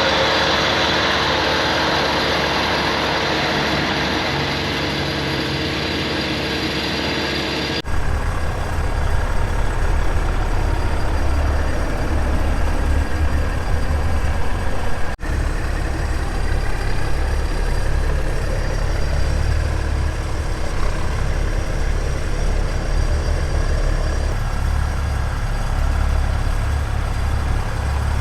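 Heavy truck engines idling with a steady low rumble. The sound changes abruptly about eight seconds in and again about fifteen seconds in, with the deep rumble strongest in the later part.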